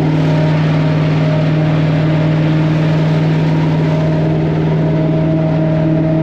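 Jet boat engine running loud at a steady speed, with an even, unchanging drone.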